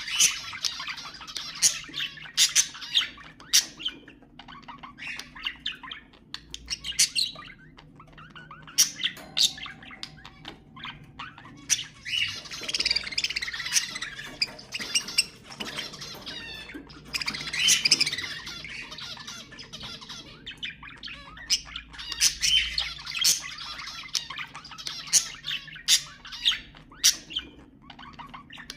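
Budgerigars chattering and warbling, with many sharp short chirps and squawks; the warbling thickens into busier stretches several times.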